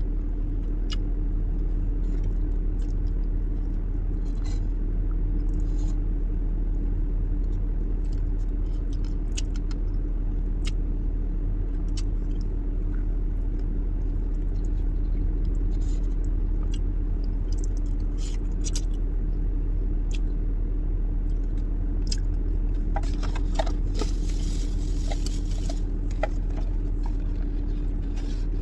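Car engine idling, a steady low hum inside the cabin, with small clicks and scrapes of a plastic fork in a cardboard food box, and a few seconds of rustling packaging near the end.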